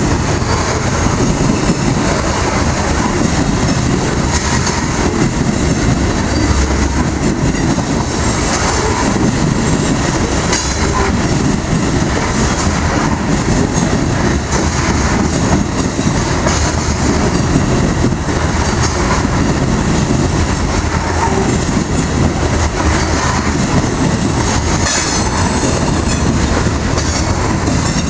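Loaded covered hopper cars of a freight grain train rolling past, a steady, loud rumble with the wheels clattering over the rails.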